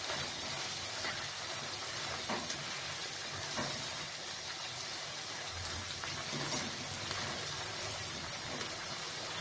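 Vegetables sizzling and simmering in a wok, their cooking water nearly cooked off, with steady fine crackling. They are stirred with a slotted spoon, with a few light taps and scrapes against the pan.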